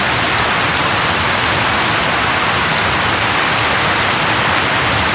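Steady rain falling, an even hiss of many raindrops with no thunder or single loud drops.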